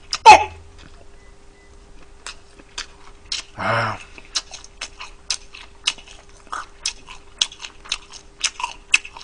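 Close-up chewing of crispy fried chicken: a string of sharp, irregular crunches and mouth clicks, coming faster toward the end. A short voiced grunt sounds just after the start and a brief hum about four seconds in.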